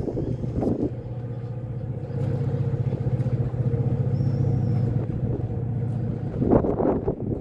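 Steady low engine drone, a little louder from about two seconds in, with wind buffeting the microphone in gusts near the start and again near the end.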